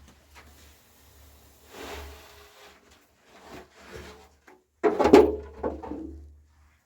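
Scraping and knocking handling sounds: a soft rustle about two seconds in, then a louder, irregular stretch of scraping and knocking about five seconds in.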